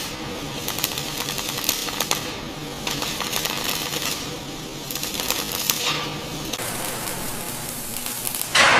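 Rapid mechanical clicking and clattering in uneven bursts. Near the end, a sudden loud hit that rings out and fades.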